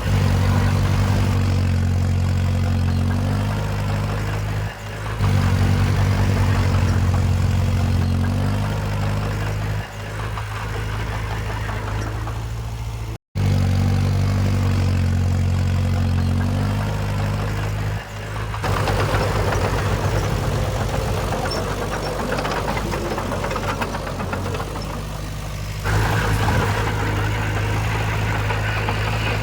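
Heavy diesel engines of earthmoving machinery running, a bulldozer or dump truck, with a steady low drone. The sound changes abruptly several times, with one brief dropout about halfway through.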